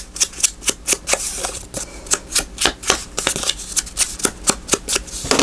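Rapid, even dabbing of an ink pad or ink applicator onto small paper cards, about four to five light taps a second.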